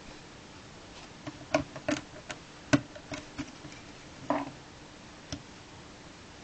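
LEGO bricks being handled and pressed together: a scatter of sharp, irregular plastic clicks and taps that starts about a second in and stops a second before the end, over a faint steady hum.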